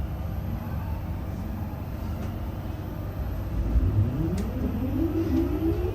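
A vehicle's engine or motor running low and steady, then from about three and a half seconds in rising in pitch as the vehicle accelerates away.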